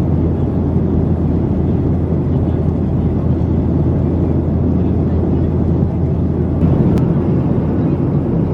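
Steady rumble of a Boeing 737-700's jet engines and airflow heard inside the passenger cabin, with a single sharp click about seven seconds in.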